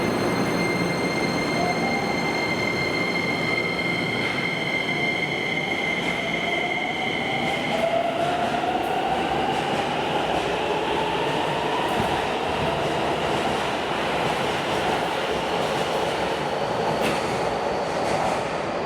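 Subway train on the underground platform track, its motor whine rising slowly in pitch as it pulls away and gathers speed, over continuous wheel and rail noise; a set of steady high tones stops about eight seconds in.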